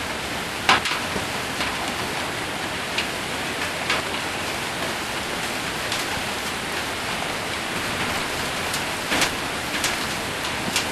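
Rain mixed with hail drumming on a metal roof: a steady hiss with scattered sharp hits of stones, the loudest about a second in and another near the end.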